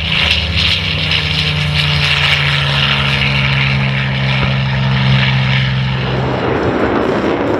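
Aircraft engine drone with a steady low pitch, which drops away about six seconds in and leaves a rushing noise.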